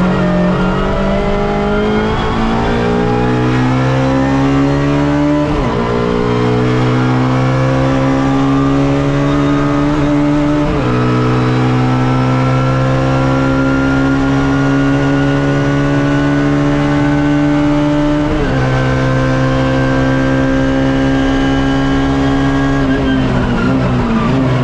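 Suzuki Swift race car's engine heard from inside the car under hard acceleration. The pitch climbs steadily in each gear and drops sharply at upshifts about 5.5, 11 and 18.5 seconds in, then falls away near the end as the driver lifts off.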